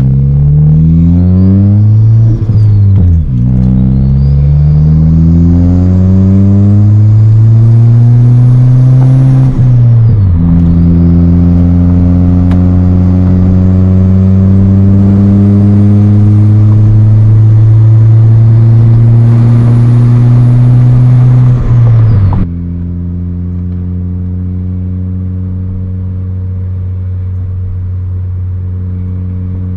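A 2014 Ford Fiesta ST's 1.6 EcoBoost four-cylinder, fitted with an S280 big turbo, pulls hard under acceleration. The engine note climbs in pitch, breaking briefly for two upshifts, with a high whine rising alongside it. About 22 seconds in it drops off suddenly to a quieter, steady drone.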